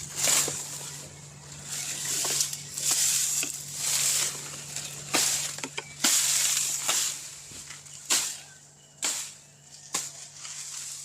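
Dry sugarcane leaves rustling in repeated swishes, with a few sharp clicks or snaps among them.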